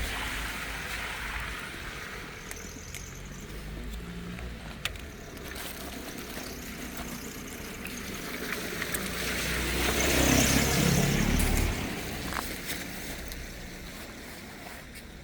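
A vehicle driving past on the street, its engine rumble swelling to a peak near the end and then fading away, with a few light clicks.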